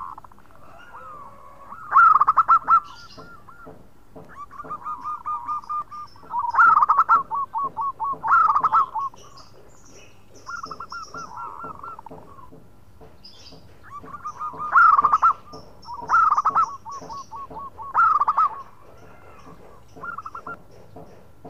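Zebra dove (perkutut) singing: about six repeated cooing phrases, each a loud opening note followed by a quick rolling run of short coos. Fainter high chirps sound between the phrases.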